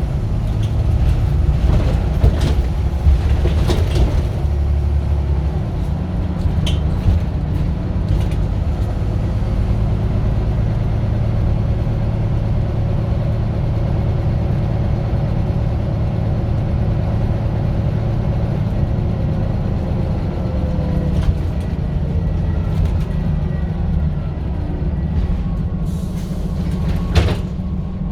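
Scania bus diesel engine running steadily with a low drone, its pitch drifting slowly up and down as it pulls. Several sharp knocks and rattles break in, the loudest near the end.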